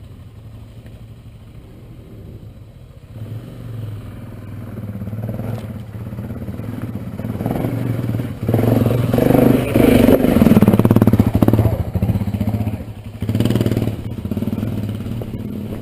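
BMW G650 Xcountry single-cylinder motorcycle engine working up a rock step under throttle, rising about three seconds in and loudest from about eight to thirteen seconds in before easing off, with some clatter over the rocks.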